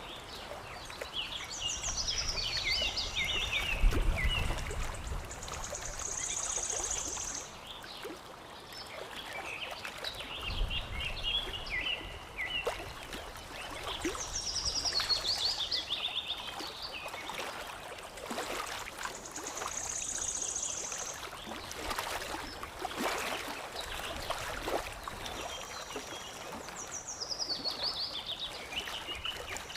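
Songbirds chirping in repeated phrases, runs of quick descending notes and a high buzzy trill, the same pattern coming back every dozen seconds or so, over a steady wash of lapping, trickling water. Two brief low rumbles sound in the first third.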